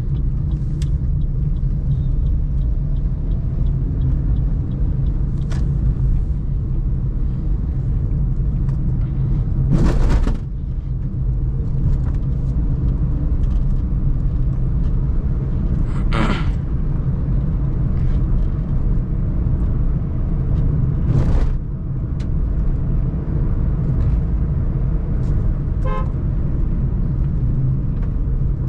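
Suzuki Celerio driving through city traffic, its engine and road noise a steady low rumble. Vehicle horns honk several times: short loud blasts about ten, sixteen and twenty-one seconds in, and a shorter horn toot near the end.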